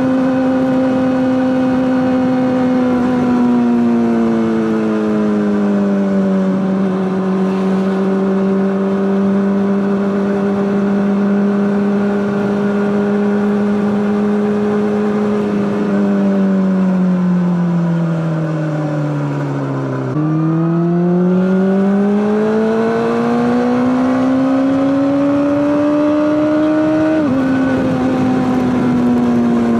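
Honda CBR600RR's inline-four engine running through an Akrapovic exhaust under way: it holds steady high revs, eases off twice to its lowest note about twenty seconds in, then climbs again, with a sudden drop in pitch near the end like an upshift.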